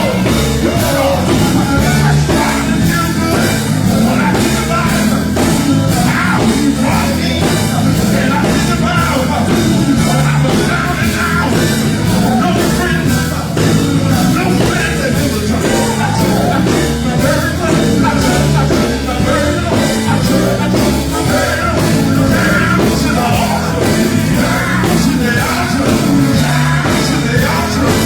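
Live gospel group performing: a loud full band with heavy bass and a steady drum beat, with singing over it.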